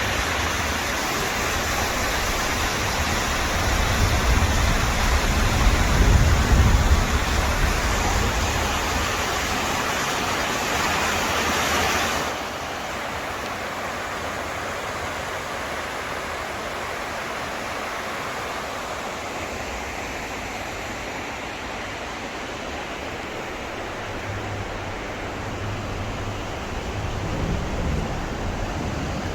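Steady rushing wind and low rumble heard from aboard a moving freight train, the rumble swelling a few seconds in. The hiss drops abruptly about twelve seconds in.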